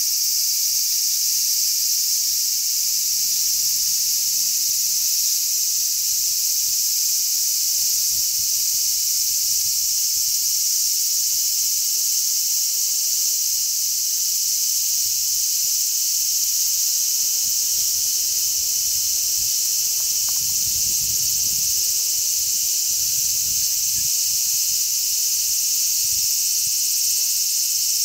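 Chorus of many large brown cicadas (Graptopsaltria nigrofuscata) calling together, a continuous, even, high-pitched sizzling buzz. Wind rumbles faintly underneath, gusting a little more in the second half.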